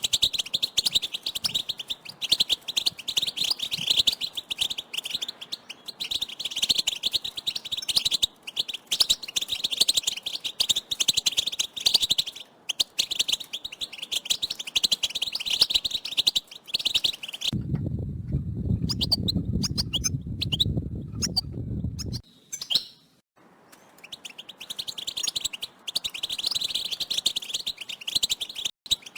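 A flock of European goldfinches calling together in dense, rapid twittering chirps. A little past the middle the chirping drops out for about five seconds and a low rumbling noise takes its place, then the chirping comes back.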